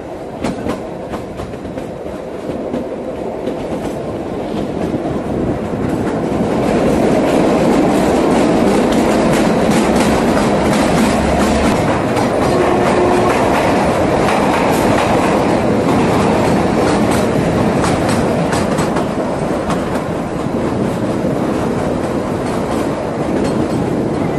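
Kalka–Shimla narrow-gauge toy train running on the track, its wheels clattering over the rail joints. The rumble builds over the first several seconds and then holds steady.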